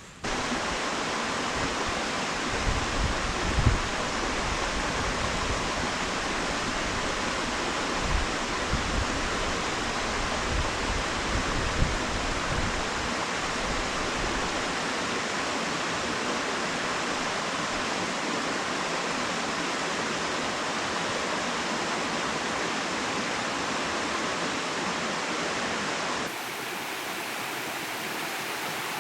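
Steady rush of falling water from a waterfall, with a few low bumps in the first half.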